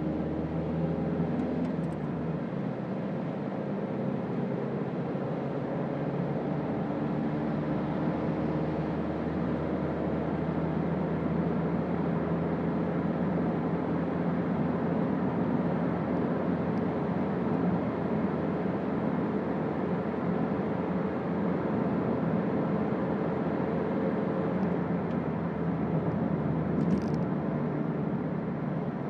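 Toyota Auris 1.4 D-4D four-cylinder turbodiesel running steadily on the move, with a constant hiss of tyres on a wet road. There is a single brief click near the end.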